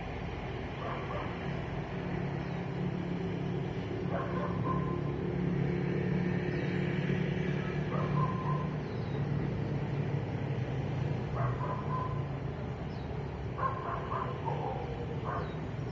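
A vehicle engine drones low as it passes, swelling through the middle and easing off. Over it a dog barks, single barks every few seconds, and birds chirp faintly in the background.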